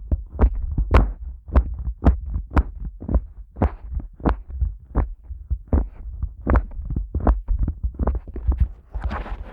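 Fingers pressing and squeezing the rubber ears of a Neumann KU100 dummy-head microphone, making deep muffled thumps about twice a second. Near the end it changes to a denser rustling and scratching on the ears.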